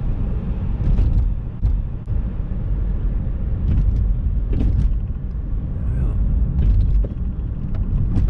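Steady road and drivetrain rumble inside a moving 2007 Hyundai Sonata, with several short sharp knocks spread through it. The knocks are the loose-sounding clunk from the front passenger-side suspension over bumps, which the owner suspects is a bad strut.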